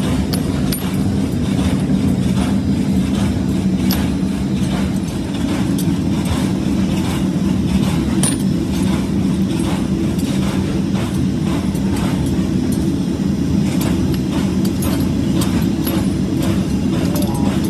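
Steady machine drone with many light, irregular clicks and knocks over it, typical of a running forge-workshop machine.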